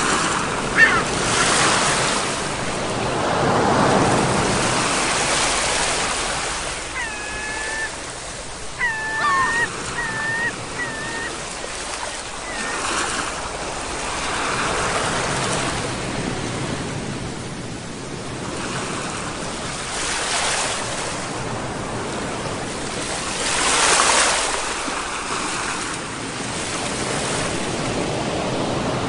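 Ocean waves breaking and washing ashore, swelling and fading every few seconds. A bird gives a series of short calls about a quarter of the way in.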